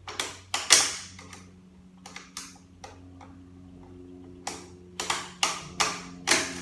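Sharp metallic clicks and taps, about a dozen at uneven intervals, as tools work a snap ring off an automatic transmission's parts. A steady low hum starts about two seconds in.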